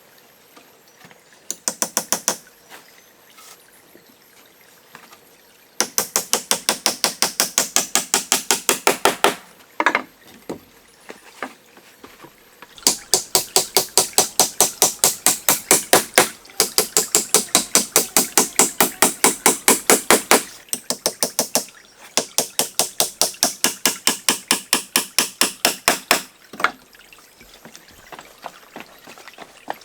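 A hand tool working in quick, evenly spaced rasping strokes, about seven or eight a second, in five bouts of a few seconds with short pauses between.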